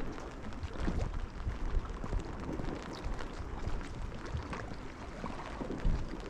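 Outdoor rain ambience: scattered drips and patter of rain with a low rumble of wind on the microphone, and a few louder low bumps.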